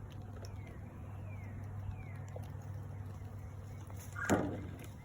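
Steady low hum of a honeybee swarm buzzing around a hive, with a few faint falling chirps. A short, loud creak about four seconds in.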